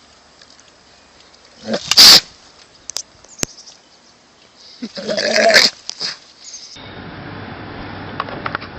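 An animal calling loudly twice, about two seconds and five seconds in. The calls are short and pitched, with a steady background hum coming in near the end.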